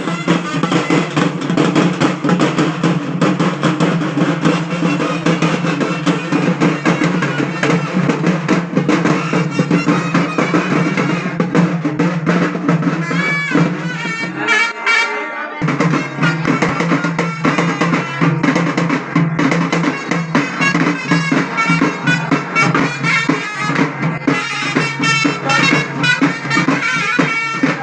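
Festival band music: fast, dense drumming with a wind instrument playing a wavering melody over a steady drone, the drone dropping out briefly about halfway through.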